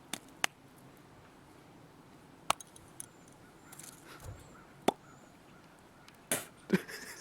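A few sharp, separate clicks or knocks spread a second or two apart, then a quicker run of them near the end.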